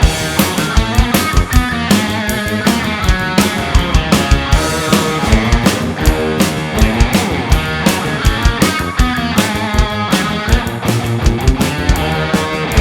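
Rock band playing live: drums keep a steady beat under electric guitar.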